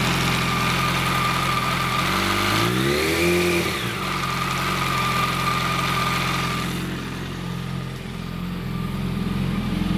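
Yamaha R1's inline-four engine idling with a rattle, revved once about two seconds in, the revs rising and falling back to idle within a couple of seconds. The rattle goes away with the clutch pulled in or the throttle opened, and its cause is not known.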